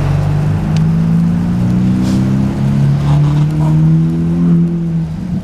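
A motor vehicle's engine running close by in traffic, its hum slowly rising in pitch as it pulls away, over a low rushing noise.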